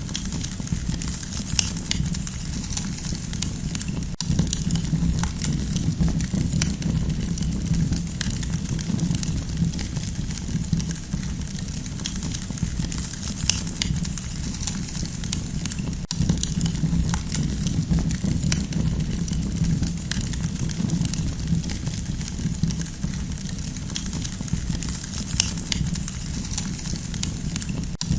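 Campfire burning with many small, irregular crackles and pops over a steady low rumble.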